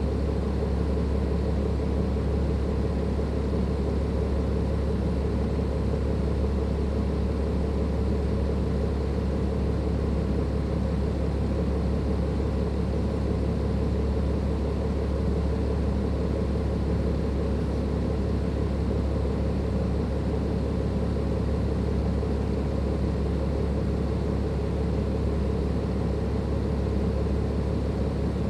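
Cummins ISLe six-cylinder turbodiesel engine of a Dennis Enviro 500 double-decker bus running at a steady, unchanging speed, as at idle, with a constant low hum and a faint steady whine above it.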